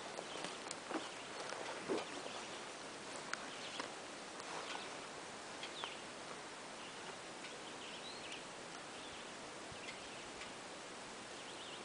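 Outdoor ambience over a forested valley: scattered short, high bird chirps against a steady background hiss, with a few soft knocks in the first few seconds, the loudest about two seconds in.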